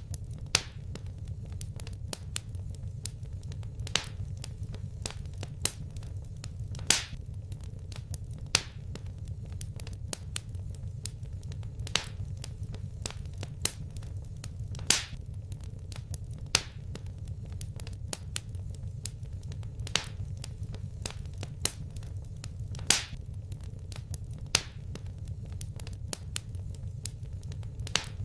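Wood fire in a fireplace crackling: frequent irregular sharp pops and snaps, a few of them louder, over a steady low rumble.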